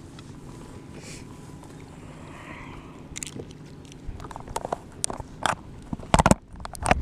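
Knocks and clatters of gear being handled on a kayak, starting about four seconds in, with two louder knocks near the end, over a low steady rumble of wind and water.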